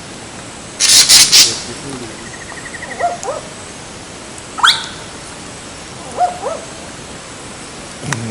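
A series of short animal calls: hooked, falling notes twice, a rapid buzzy trill and a quick rising whistle, with a loud noisy burst about a second in.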